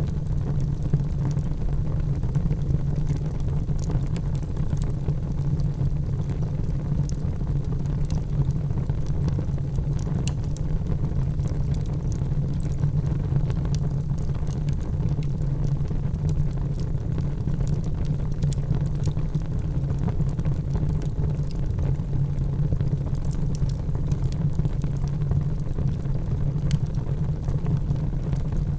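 Wood fire burning in a fireplace: a steady low rumble with scattered small crackles and pops throughout.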